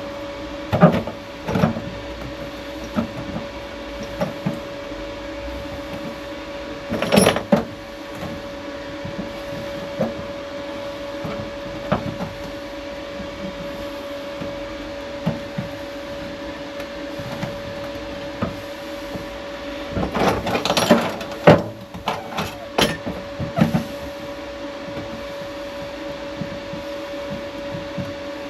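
Steady machine hum with scattered knocks and clatter, one loud knock about seven seconds in and a quick run of them near the end.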